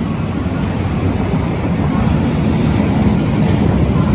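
Berlin U-Bahn large-profile train running: a steady, loud rumble that grows slowly louder.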